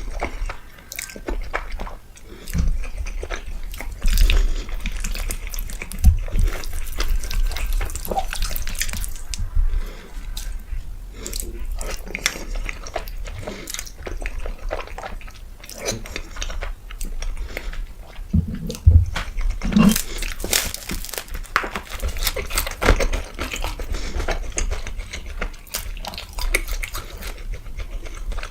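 Close-miked eating: wet chewing and mouth sounds of saucy food, with many short clicks throughout.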